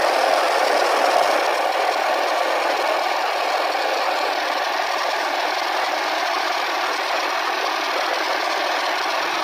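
A steady, dense, noisy drone with no deep bass and a faint thin tone above it, presented as the sound of Saturn's moon Mimas; the audio's own maker called it fake.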